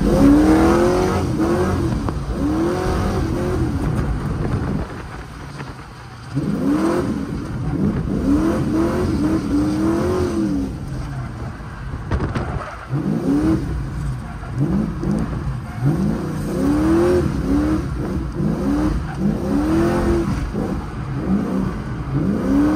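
Drift car engine revving hard, its pitch climbing and dropping again and again as the throttle is worked, with a brief easing off about five seconds in.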